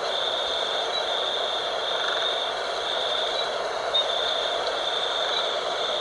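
Night ambience: insects trill steadily in a high band that breaks off about once a second, over a steady rush of wind.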